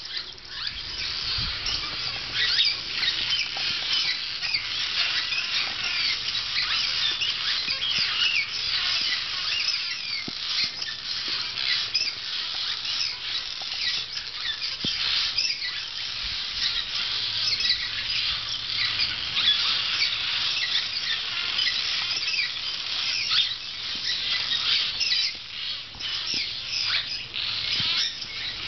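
Barn swallows twittering: a dense, continuous stream of short, high chirps from several birds overlapping.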